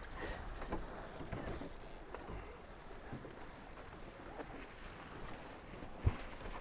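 Tornado catamaran sailing fast: water rushing along the hulls with wind noise, a few faint taps of gear, and one dull thump about six seconds in.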